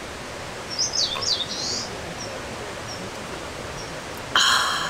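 Small songbird calling outdoors: a quick run of high chirps sliding up and down about a second in, then a few faint short chirps, over a steady background hiss. A short, loud buzzy burst comes near the end.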